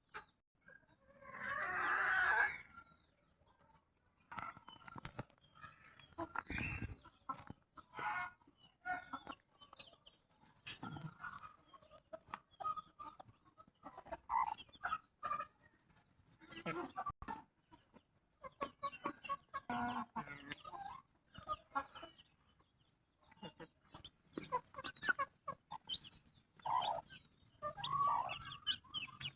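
Chickens clucking on and off, with one louder, longer call about a second in and scattered short clicks between the calls.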